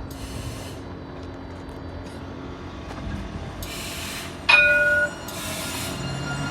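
Nottingham tram at the stop: short hissing bursts, then a sudden loud ringing chime about four and a half seconds in, and near the end the tram's low motor hum starting up as it pulls away.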